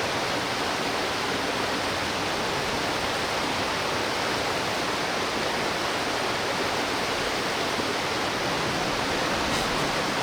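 Mountain stream rushing steadily, an even hiss of flowing water.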